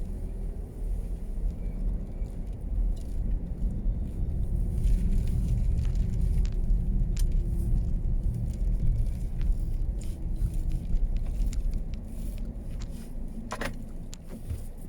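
Car running along a snowy road: a steady low rumble of engine and road noise with a faint wavering hum and a few small clicks.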